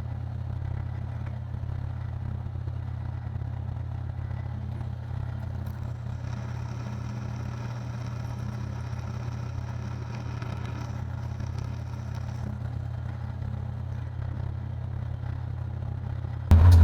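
Steady low machine hum with a faint hiss, unchanging throughout, while drilling is paused to let the bit cool.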